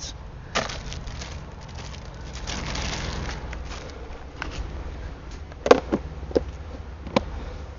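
Rustling and a few sharp clicks from objects being handled, with a swell of hiss about three seconds in.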